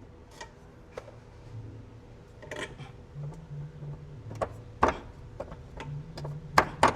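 Scattered clicks and knocks of tools and parts being handled during work on a car's rear suspension, with a few sharper knocks near the end.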